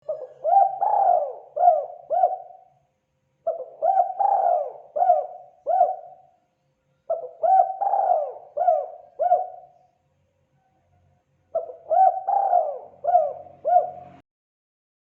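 Spotted dove (terkukur) cooing: four phrases of several rising-and-falling coos, each phrase about three seconds long with a short pause between, the last one cutting off abruptly.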